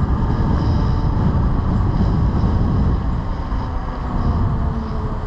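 Wind buffeting the microphone of an e-bike moving at speed: a heavy low rumble that eases slightly near the end.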